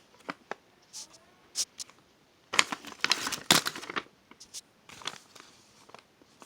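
Packaging crinkling and rustling in short bursts as a package is opened and the miniature DIY kits inside are handled, busiest about two and a half to four seconds in.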